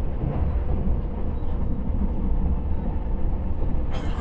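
Steady low rumble of a 273 series electric train running, heard inside the passenger car, with a faint steady hum. A brief sharp noise comes near the end.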